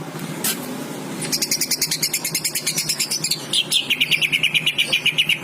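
Cucak ijo (green leafbird) singing a fast, high-pitched chattering run of repeated notes, about ten a second. It starts about a second in and drops to a lower pitch about halfway through.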